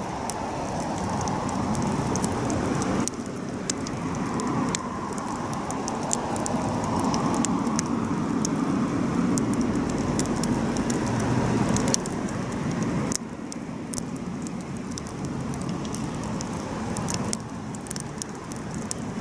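Wood campfire burning: a steady low rush of flames with frequent sharp crackles and pops from the burning wood.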